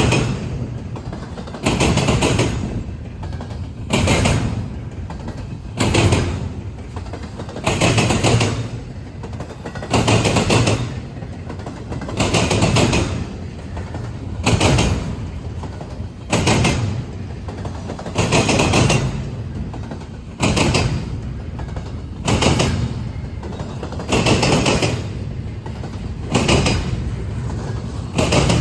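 Train passing slowly, its wheels clanking over rail joints in a steady rhythm, one heavy clank about every two seconds as each car goes by.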